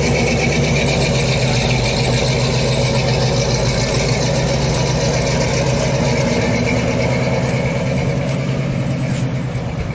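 Car engine running at a steady idle, close by; it gets a little quieter near the end.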